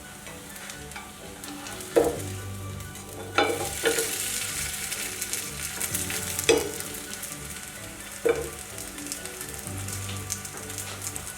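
Food sizzling in a hot pan while it is stirred, the sizzle growing louder a few seconds in. A spoon or spatula knocks sharply against the pan about five times.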